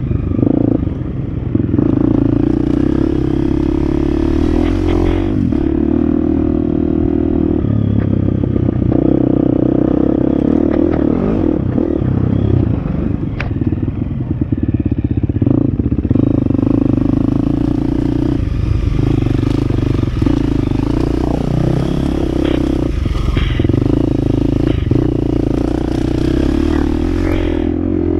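Husqvarna FX 350 dirt bike's four-stroke single-cylinder engine running hard, its revs rising and falling with the throttle. The bike clatters over rough trail.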